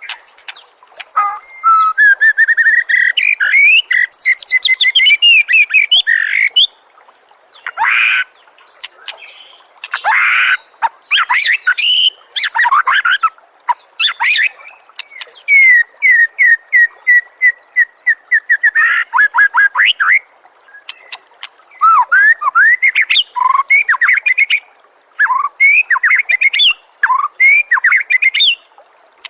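White-rumped shama (murai batu) singing: quick runs of chirps and rapid rising and falling whistled notes, in phrases separated by short pauses.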